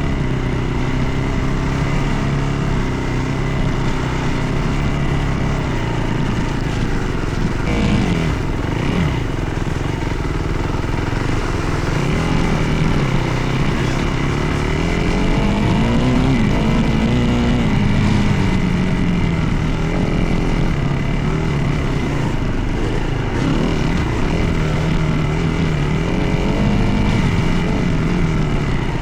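Dirt bike engine under way, its pitch rising and falling again and again as the rider works the throttle and gears.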